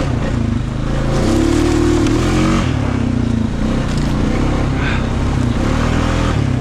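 Honda Rubicon ATV engine running under load on a muddy trail. It revs up about a second in and eases off a little before the middle.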